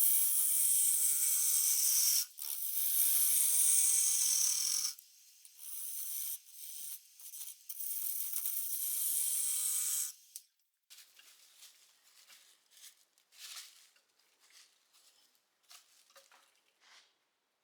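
A steel bowl gouge scraping with a loud, high hiss in spells of a few seconds, broken by short pauses, then scattered faint scrapes and ticks over the last seven seconds or so.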